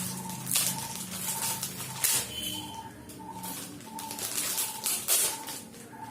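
Crunching bites into a sweet puffed-rice ball (pori urundai), sharp crackly bursts about three times. A short high peep repeats steadily in the background, a little under two a second.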